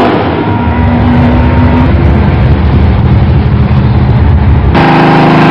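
Drag-racing car's engine running down the strip away from the microphone, heard mostly as a heavy low rumble. About four and a half seconds in, it cuts abruptly to a closer engine with a clear, steady note.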